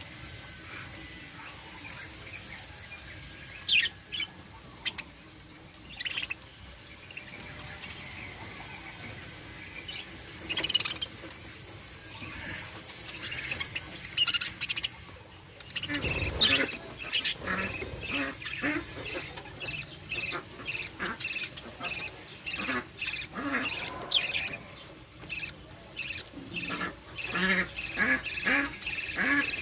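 Budgerigars chirping: a few scattered high chirps at first, then rapid, continuous chattering calls from about halfway in.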